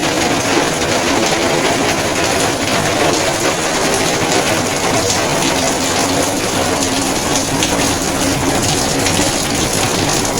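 Heavy rain falling and running water splashing, a loud, steady rush of noise.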